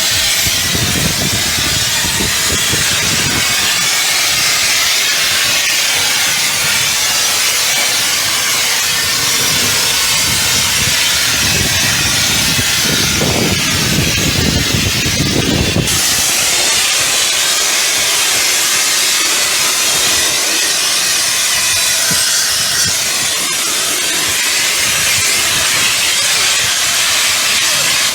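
High-pressure washer jet spraying water, a loud steady hiss, with lower splashing in the first half that drops away abruptly about sixteen seconds in.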